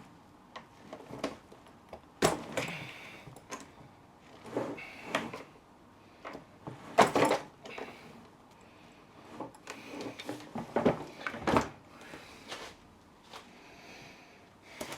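Jammed telescopic suitcase handle being worked back and forth by hand: sliding scrapes in its tubes and irregular clunks and knocks, the sharpest about two, seven and eleven seconds in. The handle is stuck and its release button isn't freeing it.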